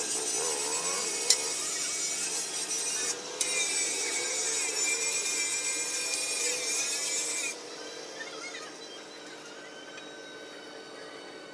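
Steady, harsh rasping of a hand-held tool working a hard surface, with a brief break about three seconds in. It stops about seven and a half seconds in, leaving a quieter background hum.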